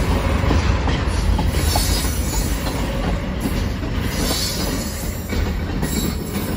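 Freight train cars rolling past at close range: a steady rumble and clatter of steel wheels on rail, with brief high wheel squeals about two seconds in and again about four seconds in.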